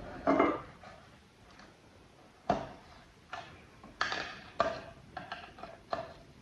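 Small hard parts and tools clinking and knocking as they are handled: a short clatter just after the start, then about half a dozen separate sharp clicks at uneven intervals.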